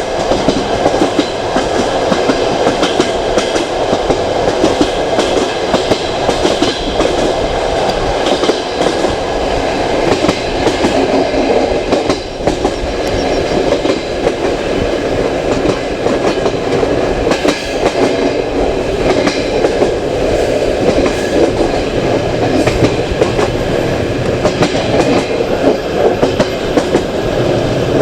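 Passenger train carriage rolling along the track: a steady running rumble with irregular wheel clicks over the rail joints.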